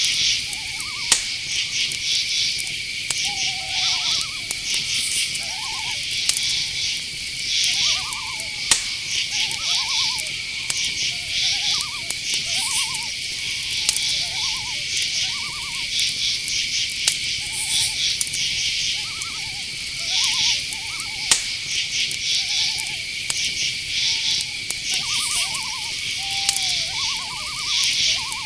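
Night forest ambience: a steady high-pitched insect drone with pulsing cricket trills, and short chirping calls repeating about once a second. A few sharp clicks stand out now and then.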